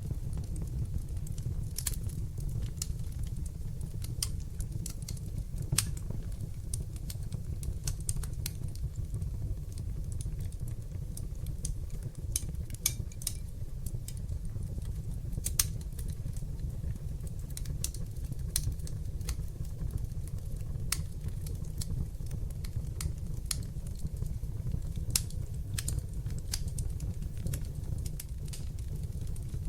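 Wood fire burning in a fireplace: a steady low rumble of the flames with irregular sharp crackles and pops throughout, a few louder pops standing out.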